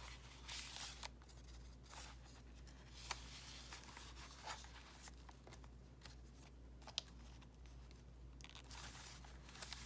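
Faint, scattered rustling and a few soft clicks of paper pages and tags being handled and turned in a handmade junk journal, over a low steady hum.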